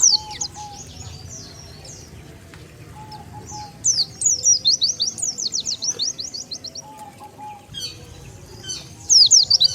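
White-eye (pleci) song: quick runs of high, falling twittering notes, one burst starting about four seconds in and another near the end, quieter between. It is the pikat lure call used to draw wild white-eyes in.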